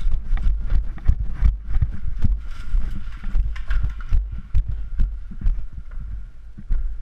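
Irregular sharp knocks and thuds, several a second, over a heavy low rumble of movement against the microphone: a player's footsteps and gear knocking as he moves.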